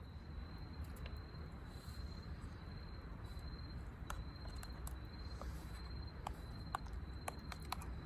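Insects chirping in an even, pulsing trill, with a few sharp clicks in the second half.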